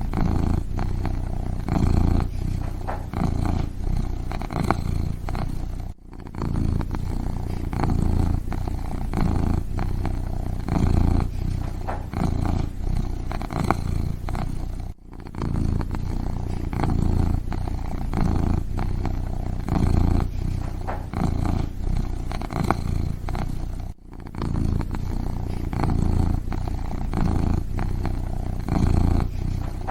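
Kitten purring: a steady, close, low rumble that pulses evenly. It breaks off for a moment three times, about nine seconds apart.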